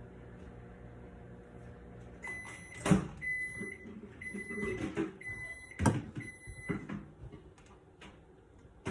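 Kitchen microwave oven humming, then going quiet and sounding its end-of-cycle signal: about five electronic beeps, roughly one a second. Two sharp knocks are the loudest sounds, one under the first beep and one under the fourth.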